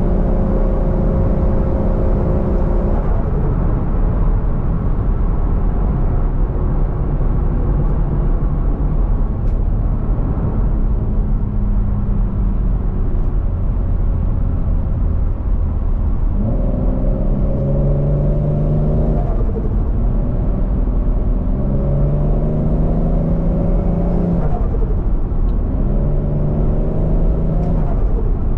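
Toyota 1JZ-GTE VVTi turbocharged inline-six engine in a Scion FR-S. It runs at a fairly steady pitch for the first half, then pulls hard three times in the second half, each time rising in pitch and then dropping back.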